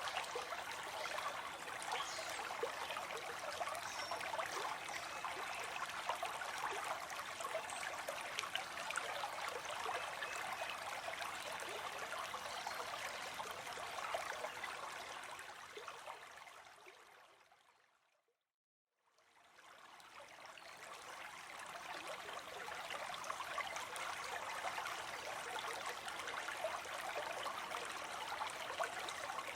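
Small stream of water trickling and babbling steadily. About two-thirds of the way through it fades out to a moment of silence, then fades back in.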